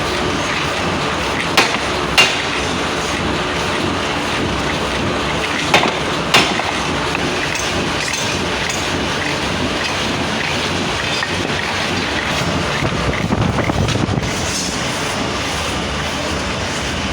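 Steady machinery noise with four sharp knocks in two pairs, each pair about half a second apart, and a short swell of low rumble near the end.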